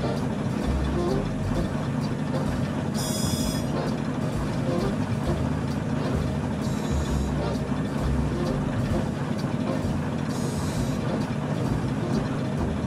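1955 Jaguar XK140's 3.4-litre twin-cam straight-six running steadily, a low even engine sound. A brief high buzz comes back about every three and a half seconds.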